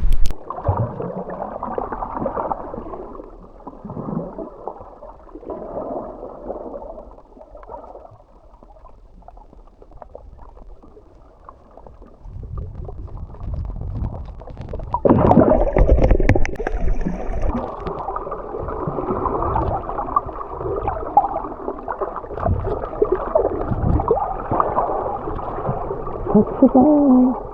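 Muffled underwater sound from a camera's waterproof housing: gurgling water and bubbles with wavering tones. It is quieter through the middle and grows suddenly louder about halfway through.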